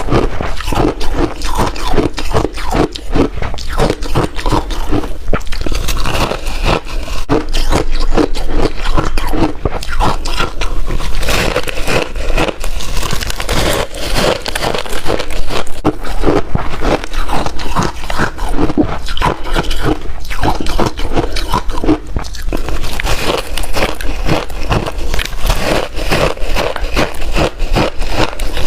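Ice being chewed: a continuous run of sharp crunches and crackles as the pieces break between the teeth.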